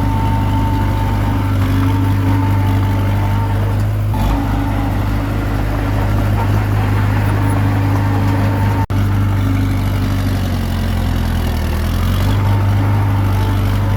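Komatsu D21P bulldozer's diesel engine running steadily under working load, with a higher whine that fades out about four seconds in and returns near the end.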